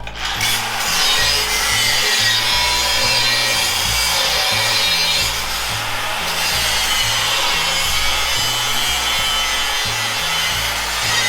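A power tool running steadily on a workpiece, a continuous hissing, rasping noise, over background music with a stepping bass line.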